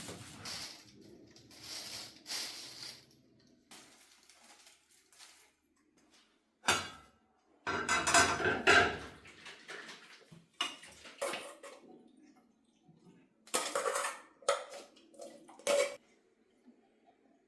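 Dishes and cutlery clinking and clattering in several separate bursts, with quiet gaps between them.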